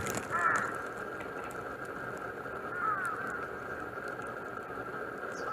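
Outdoor bird calls: two short harsh calls falling in pitch, about half a second in and again about three seconds in, over a steady high drone.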